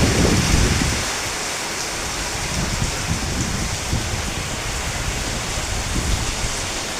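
Strong typhoon wind gusting as a steady rushing hiss. Heavy buffeting on the microphone makes a loud low rumble for about the first second, then eases to lighter gusts.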